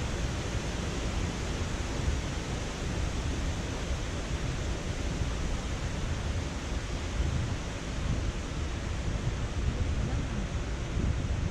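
Steady rushing road and wind noise of a car being driven, heaviest in the low end.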